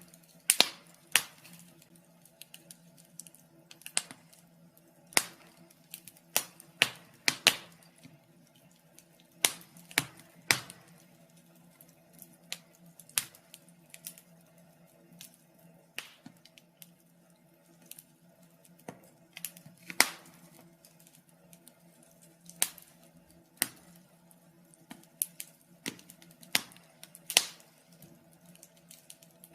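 Wood fire crackling in a fireplace: sharp pops and snaps at irregular intervals, a few every couple of seconds, over a faint steady hum.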